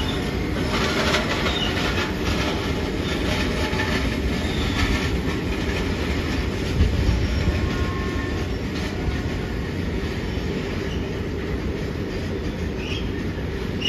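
Freight train of box wagons rolling past, a steady rumble of steel wheels on the rails with a few short, high wheel squeals.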